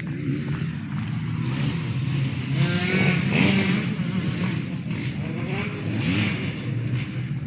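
Motorcycle engine running, revved up and back down twice, about three and six seconds in.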